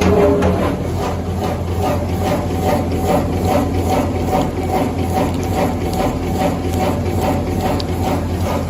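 Automatic wet-tissue packaging machine running: an even mechanical clatter of about two to three strokes a second over a steady motor hum.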